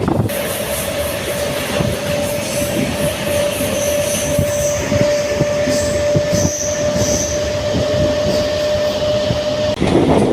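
MEMU electric passenger train running along the track, a steady rumble of wheels and carriage with a single steady tone held over it that stops near the end.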